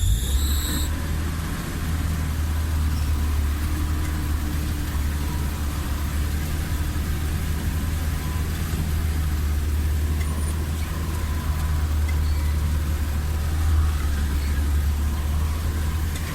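Off-road vehicle's engine running steadily as it drives along a dirt forest track, a constant low drone heard from on board. A brief high-pitched chirping sounds in the first second.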